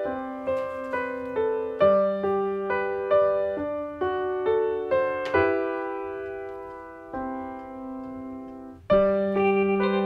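Background piano music: a gentle melody of notes struck about every half second, a few longer held notes in the middle, and a new phrase starting with a sudden louder chord near the end.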